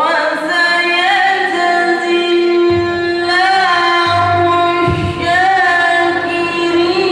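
A single high voice singing melodically, with long held notes broken by wavering, ornamented runs, in the style of a melodious Arabic recitation.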